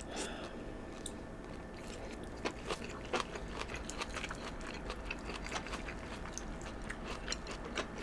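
Two people chewing mouthfuls of chow mein noodles up close, with many small, irregular wet mouth clicks and smacks.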